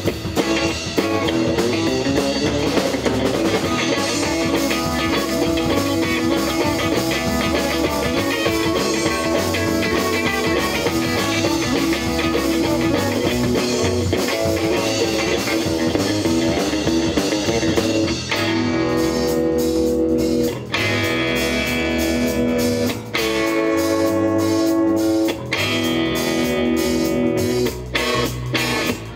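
Band playing instrumental surf rock live: electric guitar over drums. In the second half it plays held, ringing chords broken by a few short stops.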